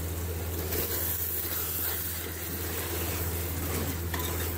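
Mutton mince and white beans sizzling steadily in a metal pot, over a constant low hum.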